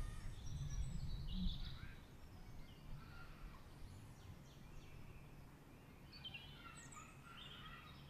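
Faint outdoor background noise: a few short, scattered bird chirps about a second in and again near the end, over a low rumble that fades after the first two seconds.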